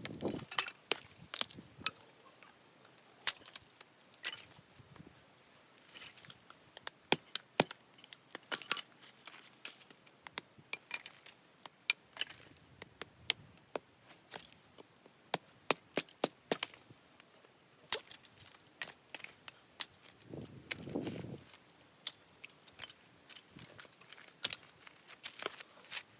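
Hatchet splitting firewood into small pieces: a long run of sharp, irregularly spaced knocks and cracks as the blade strikes and the wood splits.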